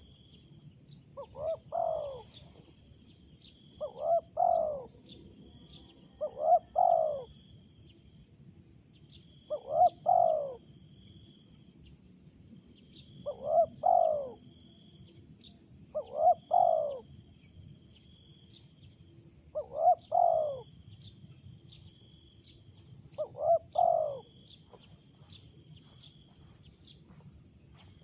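A wild spotted dove (tekukur) cooing loudly, eight times at intervals of about three seconds; each call is a quick double note followed by a longer falling coo. The cooing is unusual for the species.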